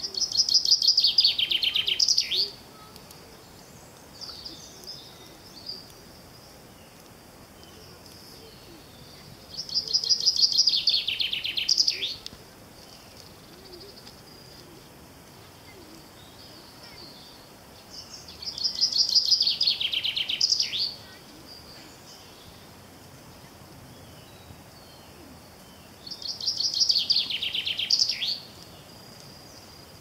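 A songbird sings the same phrase four times, about every eight to nine seconds. Each phrase is a rapid, high trill of about two seconds that drops in pitch and ends with a quick sweep. Faint outdoor background hiss lies underneath.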